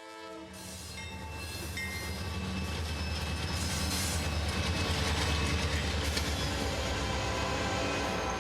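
A train approaching and running past, its low rumble growing louder over the first few seconds and then holding steady, with rail noise and faint high wheel tones above it. A held chord of tones cuts off about half a second in.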